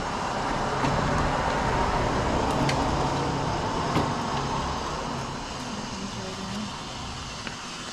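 Water running steadily into a container of branches that is being filled to the brim for soaking.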